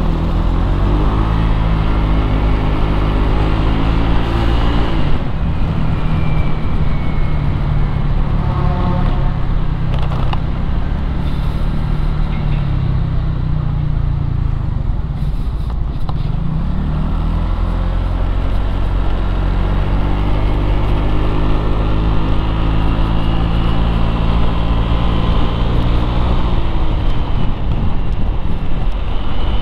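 Motorcycle engine running while riding through street traffic. Its pitch climbs as it revs up and drops back several times, over a steady rumble of traffic noise.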